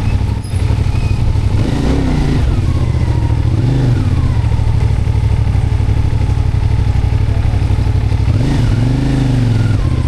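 Motorcycle engine running under way, a steady low rumble whose pitch rises and falls with the throttle a couple of seconds in and again near the end.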